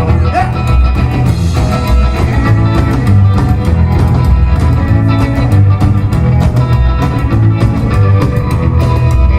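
A live rock band playing an instrumental passage, with a steady drum beat under sustained pitched instruments.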